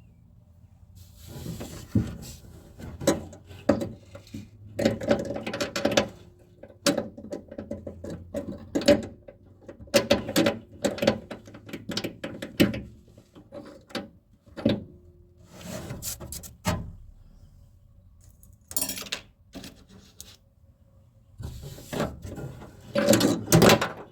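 Metal tools and parts clicking and knocking irregularly inside a 1957 Chevy Bel Air door as the outer door handle is fitted and bolted in, with dense clusters of quick clicks in places.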